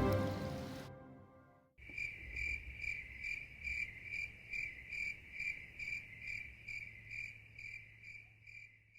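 Music fading out, then an insect chirping in an even rhythm, about two to three high chirps a second, over a faint low hum.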